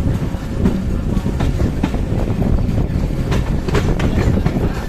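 Passenger train running on the rails: a steady heavy rumble with irregular sharp clacks of the wheels over the track.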